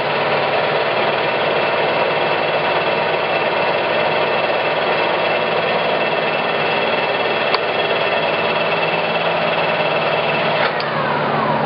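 Clausing Colchester 17 x 80 engine lathe running, a steady mechanical whir with a high gear whine. There is a sharp click about seven and a half seconds in, and near the end a whine that falls in pitch.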